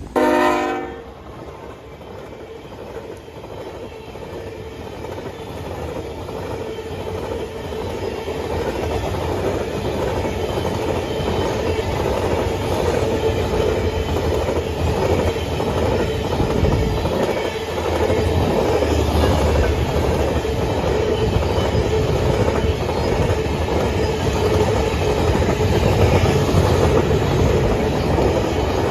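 Train passing: a short horn blast right at the start, then the wheels' clickety-clack over the rail joints, growing steadily louder and carrying on.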